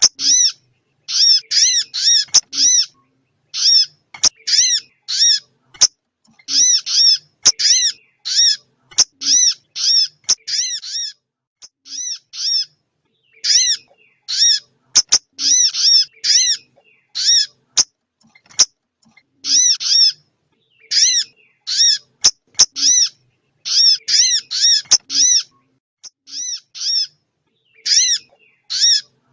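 Recorded small-bird calls played as a trapping lure: short arched, high-pitched notes in quick runs of several, repeating over and over with brief gaps, with a few sharp clicks among them.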